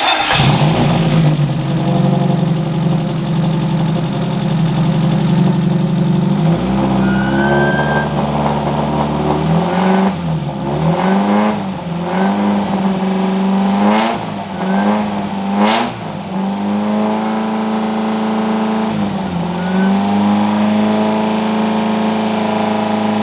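Freshly rebuilt Mazda Miata four-cylinder engine catching on its very first start and running at a held fast idle, kept off idle for break-in. Partway through the revs rise and fall several times as the throttle is worked, then it settles into a steady fast idle.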